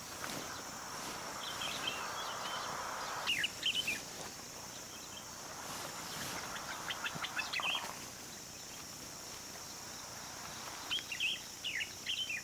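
Small birds chirping in short bursts of twittering, several times, over a steady high insect drone.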